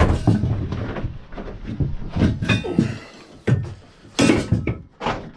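Irregular knocks, thuds and clatter as parts and tools are handled and set down on a workbench.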